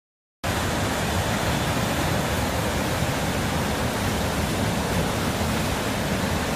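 Rushing floodwater: a loud, steady rush of water that starts suddenly about half a second in.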